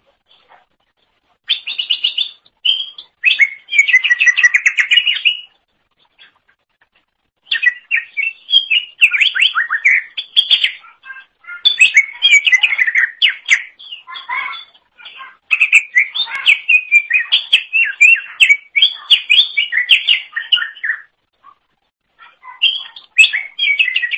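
Green leafbird (cucak ijo) singing a rapid, varied, chattering song in long bursts of quick notes, with short pauses about five and twenty-one seconds in.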